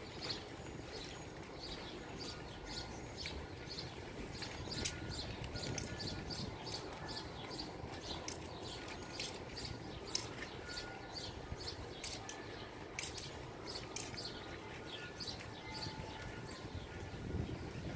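Small birds chirping repeatedly in short, sharp high notes over a steady low background rumble of street noise.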